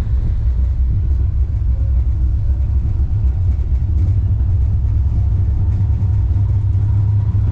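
Steady low rumble of a Wuppertal Schwebebahn suspension railway car running along its overhead rail.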